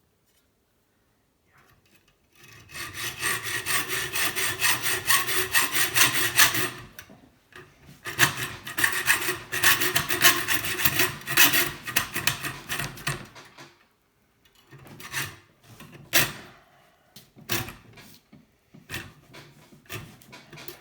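Small hand saw cutting through the metal sheath of a scrap kettle heating element with rapid back-and-forth strokes. The sawing starts about two and a half seconds in and goes in two runs of several seconds each, followed by a few scattered strokes near the end.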